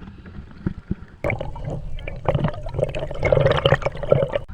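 Water sloshing and gurgling close to the microphone, with many small splashes and knocks. It rises sharply about a second in and breaks off suddenly at the end.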